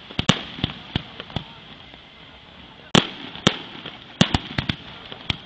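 Fireworks bursting: a quick string of sharp bangs in the first second and a half, a short lull, then more bangs from about three seconds in, the loudest ones near the three-second mark.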